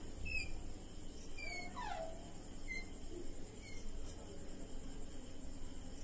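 Birds calling: a few short falling chirps and a longer call that sweeps down in pitch about two seconds in, over a faint low hum.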